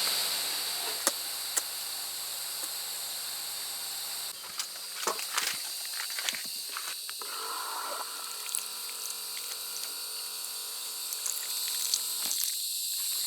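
Night insect chorus: a steady, high-pitched trilling drone that runs on without a break, with a few sharp clicks and knocks in the middle.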